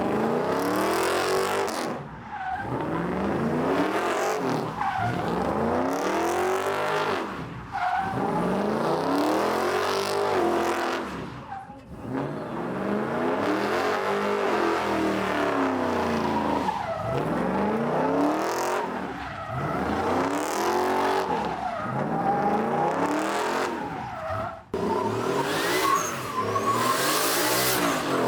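A truck engine revving hard and dropping back, again and again, roughly every two to three seconds, over spinning tires squealing during a burnout.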